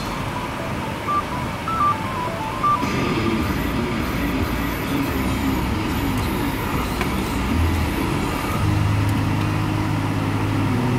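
Car engine running, heard inside the cabin as a steady rumble. A string of short, high electronic beeps stepping in pitch sounds in the first few seconds, and a steady low hum comes in near the end.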